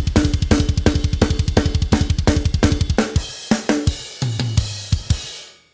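Recorded rock/metal drum kit playing back in a mix: fast double bass drum under steady snare hits with cymbals. The kick stops about three seconds in, a few separate hits and a low tom ring out, and the kit stops near the end. The snare is gated, EQ'd and compressed.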